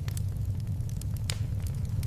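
Wood fire crackling in a fireplace: a steady low rumble of the flames with scattered small snaps and one sharper pop a little past the middle.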